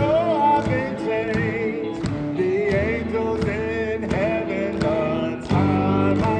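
Live sacred steel gospel band playing, the steel guitar's notes sliding and wavering over the band.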